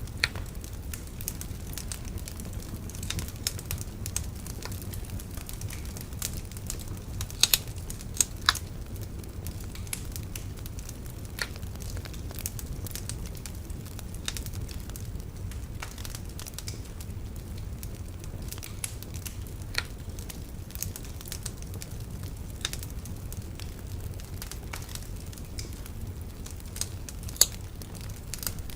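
Wood bonfire burning with irregular sharp crackles and pops over a steady low rumble, a few pops much louder than the rest.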